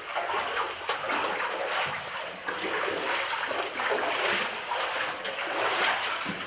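Water splashing and running inside a cave tunnel, over a steady rush, with irregular louder swells.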